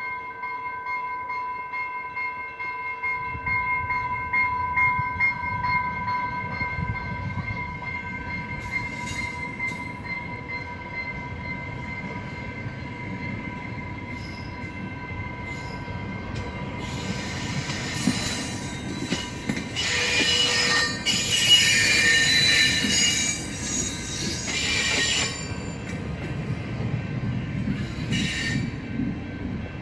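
Exo commuter train rolling in, its rumble building from a few seconds in, with high squealing from the wheels and brakes through the middle and again near the end. Steady ringing tones can be heard early on and fade out before the squeal starts.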